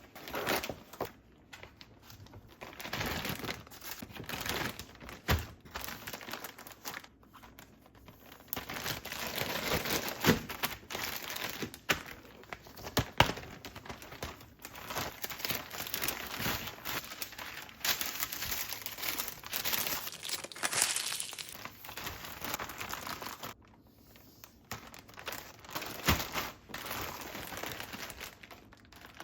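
Plastic packaging crinkling and rustling as it is handled and torn, in irregular spells with a few sharp clicks, and a short lull near the end.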